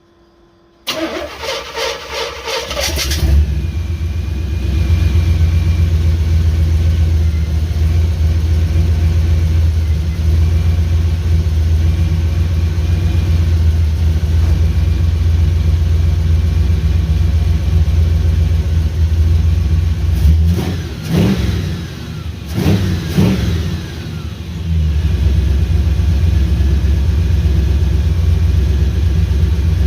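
Car engine cranked over with the starter and catching about three seconds in, then idling steadily with a deep, even note. Twice, about two-thirds of the way through, the throttle is blipped and the revs rise and fall before it settles back to idle.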